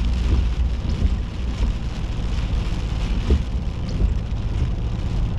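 Steady low car engine and road rumble heard from inside the cabin, with a light knock about three seconds in.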